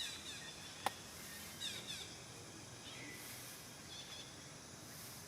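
Birds chirping: quick runs of falling chirps at the start and again about two seconds in, then thin whistled notes around three and four seconds. Underneath is a high insect buzz that swells and fades every couple of seconds, and there is a single sharp click just under a second in.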